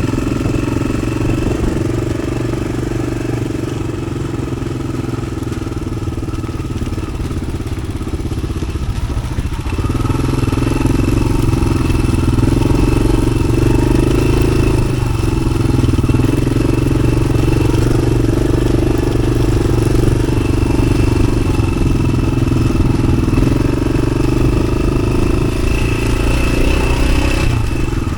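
Yamaha XT600's single-cylinder four-stroke engine running through an aftermarket Arrow exhaust as the bike is ridden. It gets louder after a short dip about nine seconds in, with brief throttle dips again around halfway and near the end.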